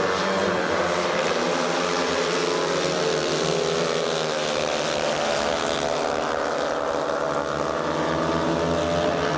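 Several speedway bike engines, 500 cc single-cylinder methanol-burning racers, running hard together in a race, their pitches rising and falling as the riders throttle through the bends and straights.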